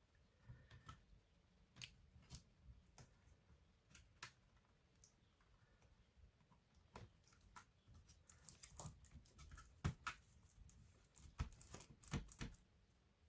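Faint scattered clicks and taps of small parts and tools being handled on an opened laptop, sparse at first and busier in the second half.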